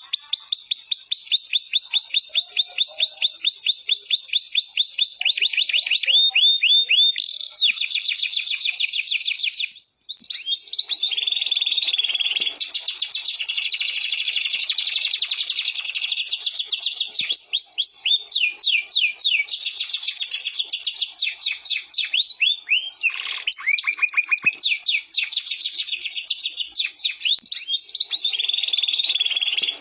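Domestic canary singing a long, varied song of fast trills and rolls, each run of rapidly repeated notes giving way to another at a different speed and pitch, with a brief break about ten seconds in.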